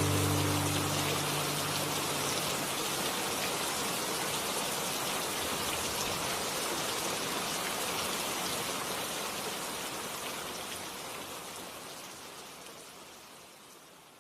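Rain falling, a steady hiss of drops that slowly fades out toward the end. The last held notes of music die away in the first second or so.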